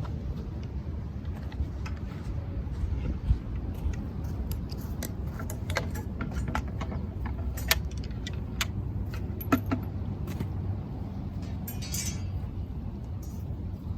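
Wood campfire crackling with scattered sharp pops and clicks, a few louder than the rest, over a steady low rumble of surf.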